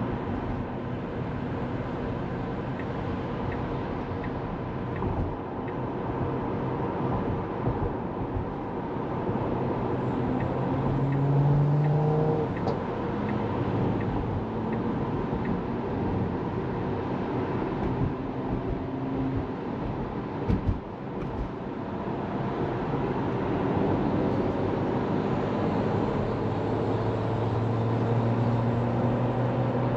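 Steady road and tyre noise of a moving Tesla Model 3, an electric car with no engine sound, heard from inside the cabin. Low humming tones swell and fade at times, and there is a brief knock about two-thirds of the way through.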